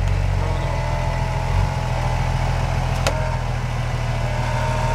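Nissan Patrol off-roader's engine running steadily while the truck is stuck in deep mud, with one sharp click about three seconds in.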